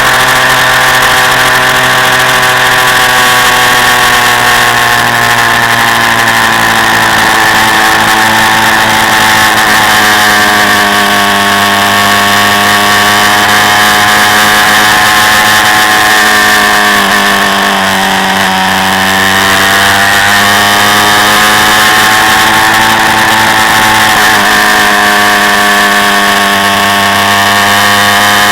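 Quad bike engine running loud and steady, heard from on board. About two-thirds of the way through, the engine note drops briefly and then rises back up.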